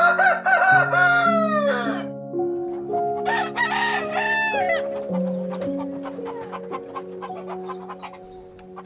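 A rooster crowing twice: a loud crow right at the start ending in a long falling note, then a second, shorter crow about three seconds in. Background music with slow, held notes plays underneath.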